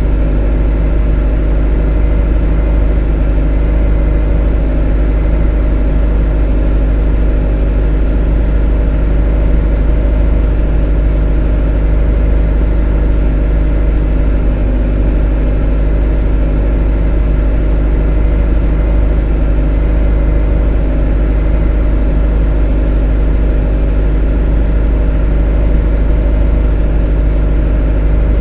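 A motor running with an even, unchanging drone: a strong deep hum with several steady tones over it.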